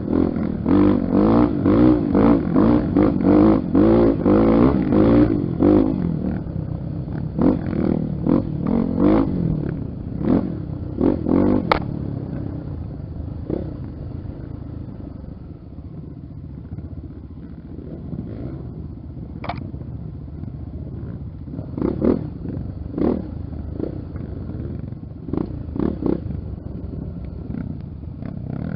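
Honda XR 250 Tornado's single-cylinder four-stroke engine under way, pulling hard with rapid throttle pulses for the first several seconds, then running quieter with occasional short throttle blips, picking up again with a few blips near the end.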